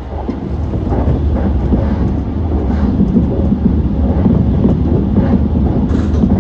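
Running noise of a JR E235-1000 series electric train in motion: a steady low rumble of wheels on rail with faint irregular clicks, getting a little louder in the first second.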